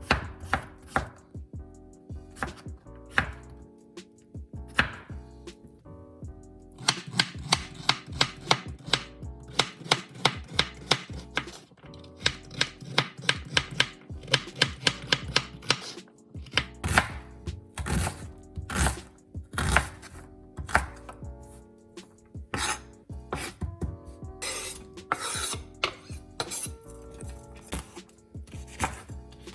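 A knife chopping food on a cutting board in runs of quick, even strokes, about four a second at its fastest, with short pauses between runs.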